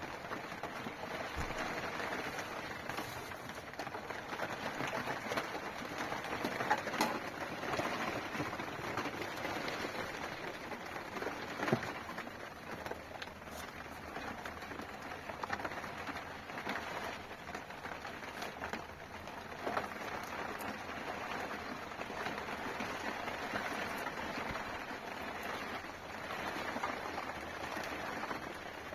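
Steady rain falling, with a few sharper ticks of drops standing out now and then.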